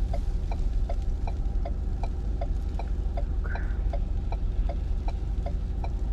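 Car's indicator flasher ticking evenly, about two and a half ticks a second, over the low steady hum of the car at idle.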